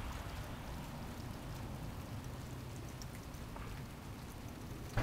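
Steady light rain falling, an even hiss with scattered drop ticks and a low rumble underneath.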